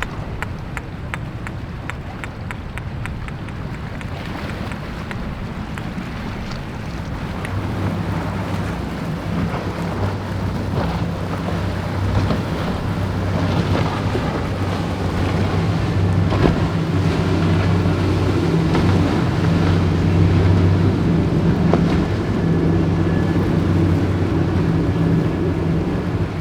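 Wind buffeting the microphone over the wash of the sea. From about eight seconds in, a passing powerboat's engines add a steady low drone that grows louder.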